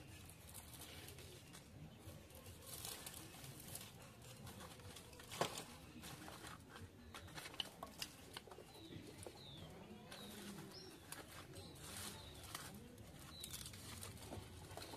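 Faint dove cooing with small birds chirping, mixed with scattered light clicks and one sharper knock about five seconds in.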